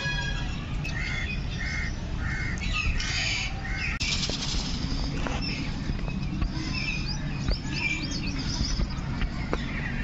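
Birds chirping in short, repeated calls, with a few gliding chirps later on, over a steady low rushing noise.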